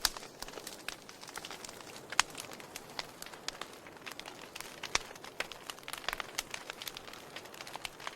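Wood fire in a fireplace crackling, with irregular sharp pops and snaps over a soft steady hiss; the loudest pops come just after the start and about two seconds in.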